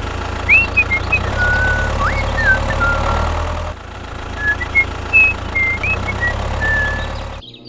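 Steady low motor hum of a mini DIY construction vehicle running, with short chirping calls over it; the sound drops abruptly partway through and again near the end.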